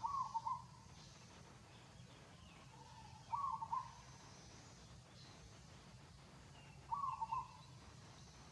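A bird call of a few quick notes, repeated three times at even spacing about three and a half seconds apart, over a faint steady low hum.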